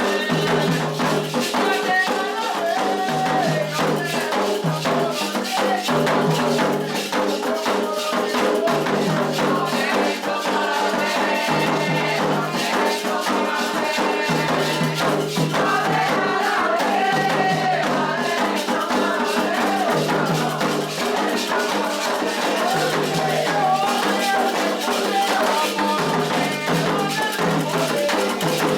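Candomblé toque: a sacred rhythm played on hand drums with rattles shaking throughout, and voices singing a chant over the percussion.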